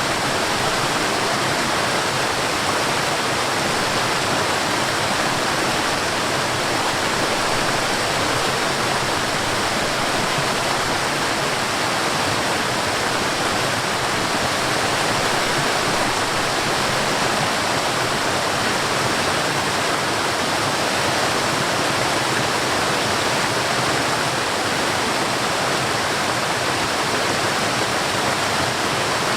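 Waterfall in a forest: a steady rush of falling water, even and unbroken.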